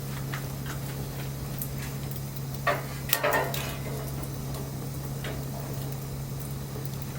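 Wood fire crackling with scattered small pops, and a quick cluster of louder cracks about three seconds in, over a steady low hum.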